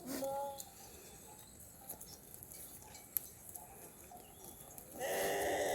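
Small livestock bleating: a short call at the start, then a louder, longer wavering bleat near the end.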